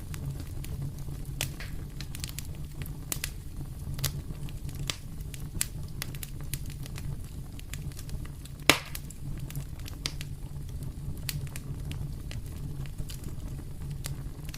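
Fire in a fireplace crackling: scattered sharp pops and snaps over a steady low rumble, with one louder pop about nine seconds in.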